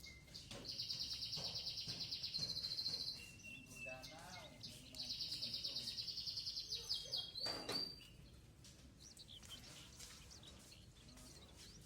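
Sparrow chirping in two long runs of rapid, evenly repeated high notes, each lasting about two seconds, with a pause between them.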